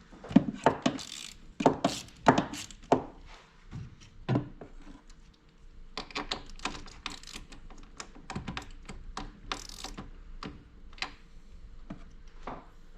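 Irregular clicks and knocks of hand tools on metal, with a socket wrench ratcheting among them, as work goes on at the car's battery.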